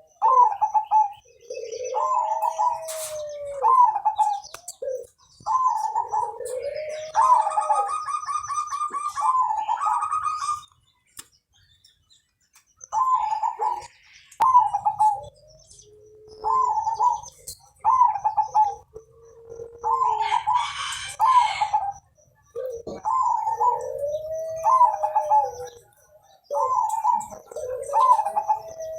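A zebra dove (perkutut) singing its cooing song over and over: a few short clipped notes, then a long drawn-out coo. The phrases come every few seconds, with a short pause about a third of the way in.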